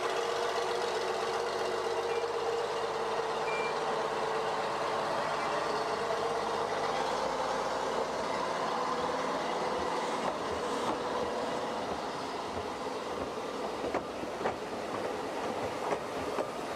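Narrow-gauge passenger train running slowly along a platform, a steady rumble and hiss with a few sharp clanks from the wheels and couplings in the last few seconds.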